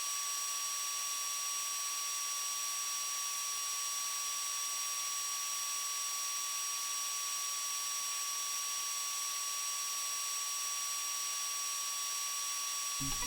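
Homemade DC-motor-driven turbofan running at constant speed: a steady airy hiss of the fan with a fixed high-pitched motor whine.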